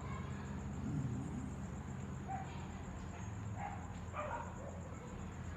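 Puppy giving a few short, high yips and barks in play.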